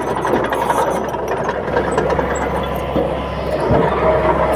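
Crawler bulldozer's diesel engine running steadily, with a scatter of clicks in the first two seconds.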